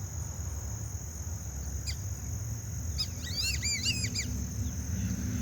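A bird calls a quick run of about five high, arching whistled notes about three seconds in, after a brief single call a second earlier, over a steady high drone and a low outdoor rumble.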